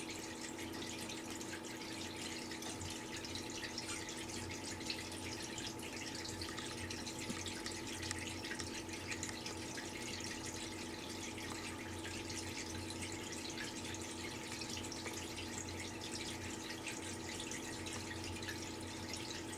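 Indoor waterfall feature running: water trickling and splashing steadily, with a steady low hum underneath.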